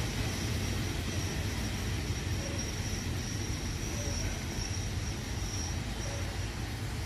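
Passenger train's coaches rumbling away along the track, the wheel noise slowly fading, with a faint high whine coming and going.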